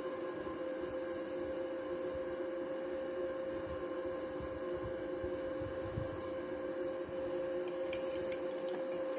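Welding inverter switched on and idling: a steady hum of several fixed tones from its cooling fan and electronics, with a few faint scraping and clicking sounds, most of them near the end.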